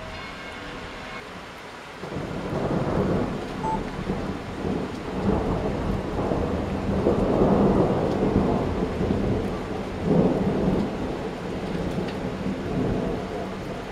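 Thunder rolling: a long, low rumble that starts about two seconds in, swells in several waves and slowly eases off, over steady rain.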